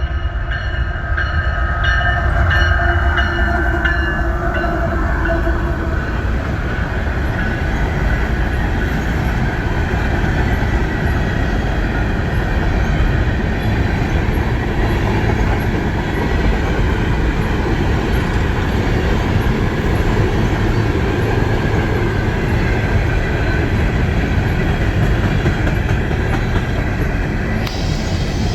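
BNSF empty coal freight train passing close by: diesel locomotive rumble, then the rolling and rattling of empty coal cars over the rails. A chord of held horn tones sounds at the start and fades out after about six seconds.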